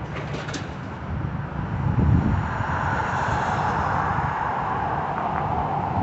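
Steady vehicle noise: a low engine rumble with a rushing hiss that grows louder about two seconds in.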